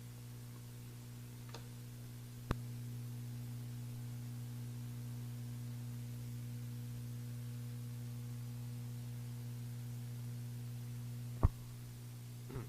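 Steady low electrical hum, with two sharp clicks: one about two and a half seconds in and a louder one near the end. The hum is slightly louder between the clicks.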